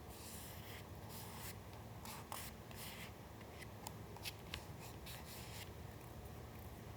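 Paper being handled at a work table: quiet rustles and slides of sheets in the first half, then a few small sharp ticks around the middle and another brief rustle.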